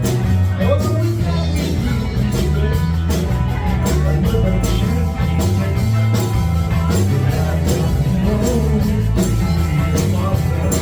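Live rock band playing, with a steady drum beat over bass and electric guitar.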